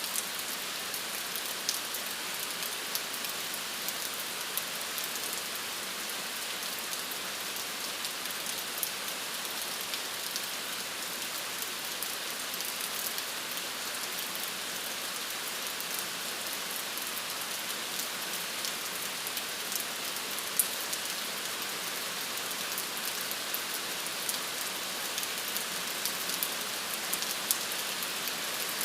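Steady rain falling on a surface, an even hiss sprinkled with the sharp taps of individual drops.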